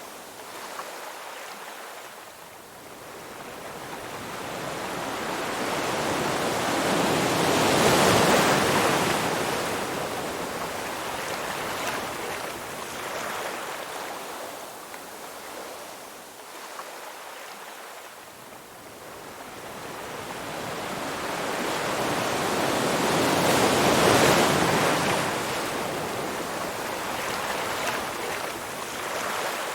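Ocean surf: waves build, break and wash back in slow swells. The two loudest come about eight seconds in and again about sixteen seconds later.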